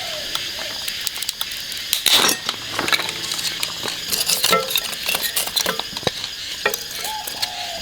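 Metal kitchen utensils knocking and clinking against cookware over a steady sizzle, with a few sharp knocks and short ringing clinks.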